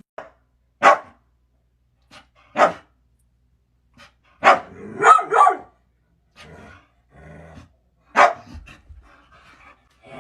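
A dog barking, single sharp barks spaced out, with a quick run of three in the middle.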